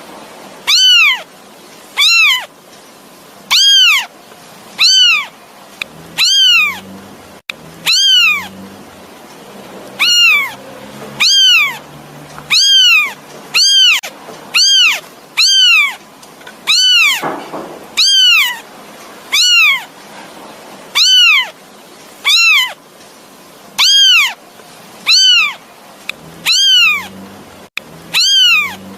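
Kitten meowing over and over to call its mother: short high-pitched cries, each rising then falling in pitch, about one every second or so in a steady run.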